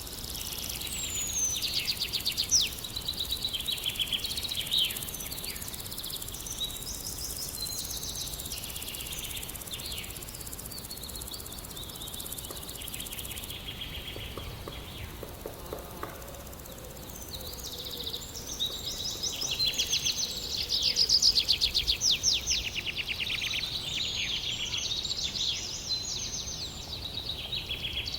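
Several birds chirping and singing in quick trills and short calls, busiest at the start and again about two-thirds of the way in, over a low outdoor background hiss.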